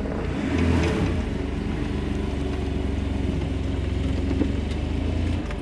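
A motor running steadily with a strong low hum, stopping shortly before the end.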